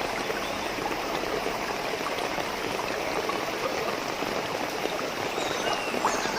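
Steady rush of flowing water, like a stream running past.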